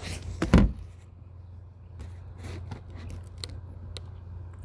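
Handling noise: a quick cluster of knocks and scrapes with a low thud about half a second in, then scattered light clicks, over a steady low hum.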